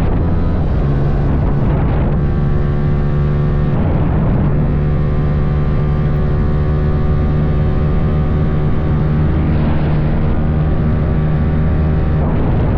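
Motorcycle engine running steadily while riding, a loud even drone with a few brief wavers in pitch.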